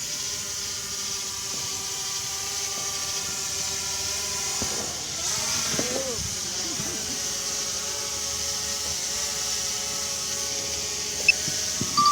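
DJI Mavic Pro quadcopter hovering overhead: a steady propeller whine made of several pitched tones, whose pitch wavers about five seconds in, over a steady high hiss.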